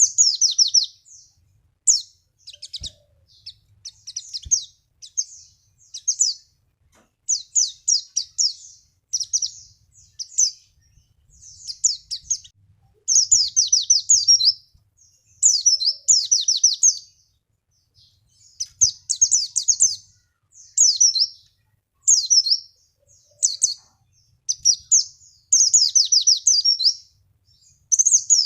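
White-eye (pleci) song: rapid, high twittering phrases repeated over and over with brief pauses between them. It is a lure recording meant to set a reluctant caged white-eye singing.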